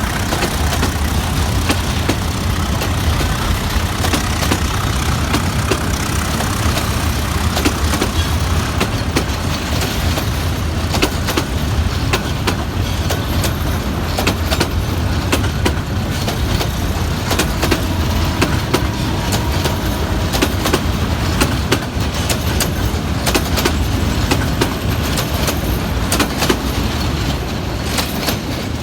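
Departing intercity passenger train rolling past: a steady low rumble with many sharp clicks of wheels over the rails, thickest in the second half.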